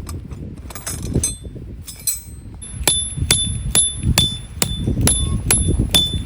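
Repeated metal-on-metal strikes, about two and a half a second from about two and a half seconds in, each leaving a high, clear ring. Before them come a few light metallic clinks, over a low rumble.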